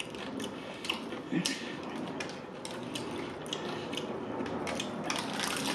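Close-miked chewing and crunching of crispy fried chicken: an irregular run of small crackling clicks.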